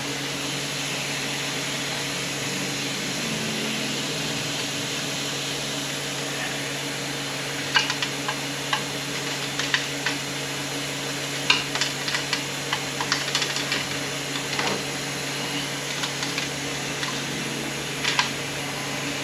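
Scattered light metallic clicks and taps as transmission parts and a screwdriver are worked on the bench, starting about eight seconds in, over a steady hum.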